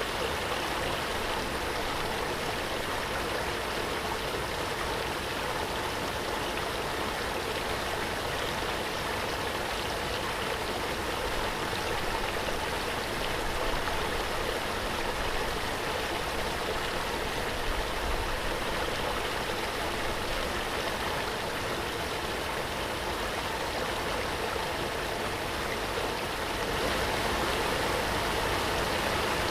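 Waterfall: a steady, dense rush of falling and splashing water, a little louder near the end.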